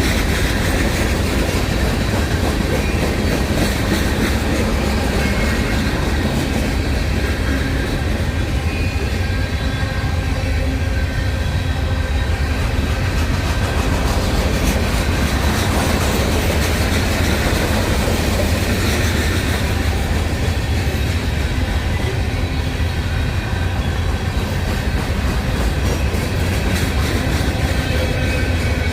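CSX freight train's cars rolling past in a steady, continuous rumble of wheels on rail, with faint high-pitched tones above it.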